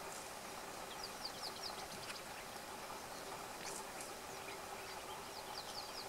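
A bird calling in two quick runs of short, high, falling notes, about a second in and again near the end, over a faint steady hum.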